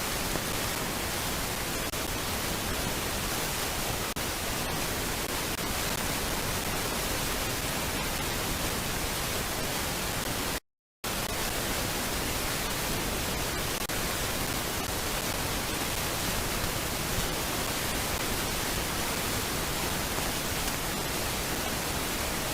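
Steady hiss of static with no birds or other events heard; it drops out completely for a moment about eleven seconds in.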